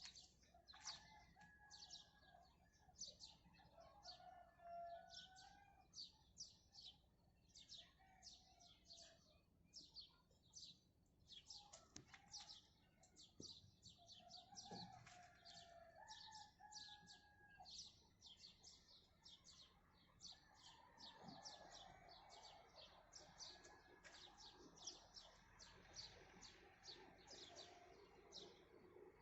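Faint dawn chorus of many small birds chirping rapidly and without a break, with a few lower, drawn-out calls from another bird now and then.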